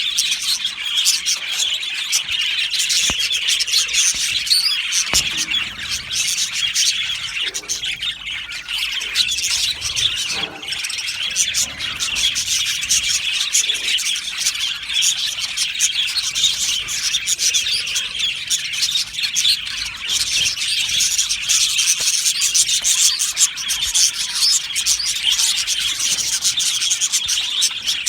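A flock of budgerigars chattering and chirping all at once, a dense steady mass of high chirps and warbles.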